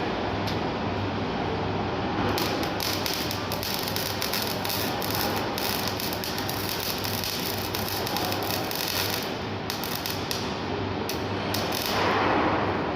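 Electric arc welding: a dense crackling sizzle from about two seconds in until about nine seconds, over a steady low hum, with a louder rush of noise near the end.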